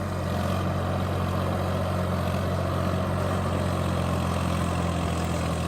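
Tractor's diesel engine running steadily, a little louder from about half a second in.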